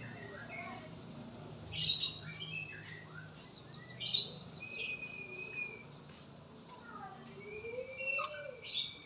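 Songbirds chirping, trilling and whistling, with many short calls and rapid trills and a few long whistled notes, over a low steady hum during the first few seconds.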